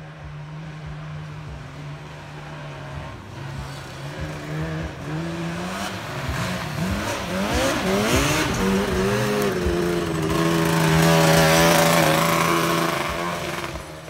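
Honda Fit's four-cylinder engine revving hard as the car drives up and past. Its pitch sweeps up and down as it goes by, then holds at high revs, loudest near the end before dropping away.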